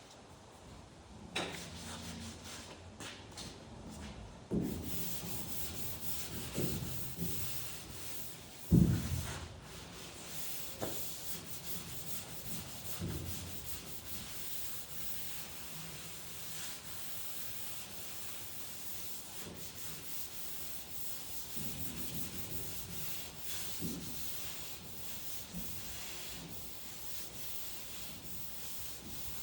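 Sanding on a car's steel body panel: a steady rubbing hiss with a few knocks, the loudest about nine seconds in.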